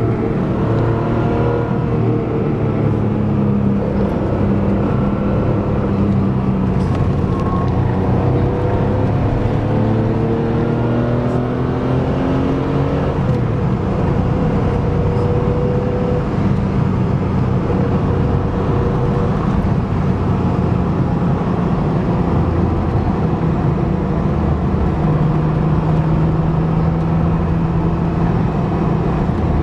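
Car engine heard from on board while driving, its pitch rising and falling again and again as it accelerates and eases off, then holding steady near the end, over a steady rush of road and wind noise.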